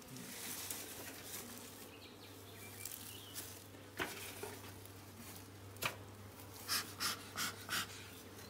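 Honeybees buzzing around an open hive in a steady low hum, while a bee smoker's bellows puffs smoke into the hive in short hissing bursts, several in quick succession near the end. Two sharp clicks come in the middle.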